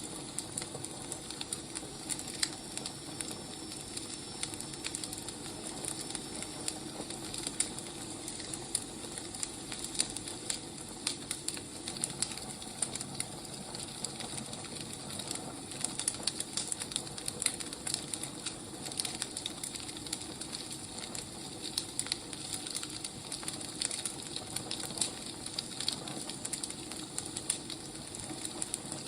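Firewood burning, a steady hiss with frequent small crackles and pops throughout.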